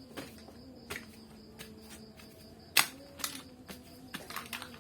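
Scattered light clicks and taps of small hard objects being handled, with one louder knock about three seconds in and a quick run of taps near the end, over a faint steady hum.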